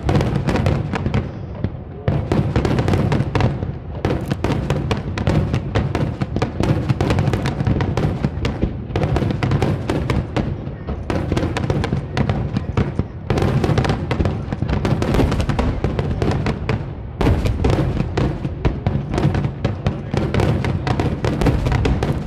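Fireworks finale: a dense, nearly unbroken barrage of shell and star-mine bursts, many cracks and booms every second, with a few brief lulls.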